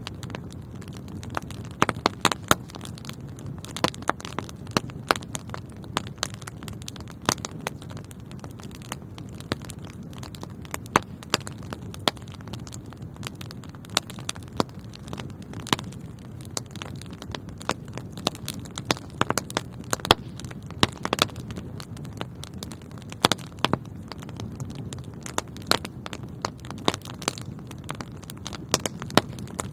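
Wood fire burning in a fireplace: a steady low rushing of the flames with frequent sharp, irregular pops and crackles.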